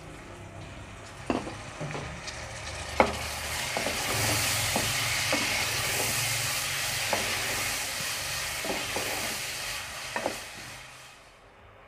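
Chopped tomatoes sizzling in hot oil and spices in a metal pot while a wooden spatula stirs them, knocking against the pot now and then. The sizzle builds over the first few seconds and dies down near the end.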